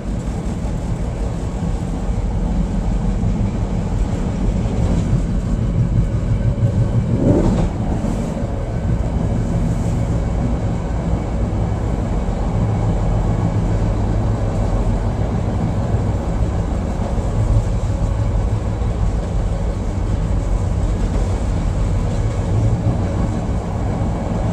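Chicago 'L' Brown Line train running on its rails, heard from inside the front of the car: a steady low rumble of wheels and motors, with a brief rising whine about seven seconds in.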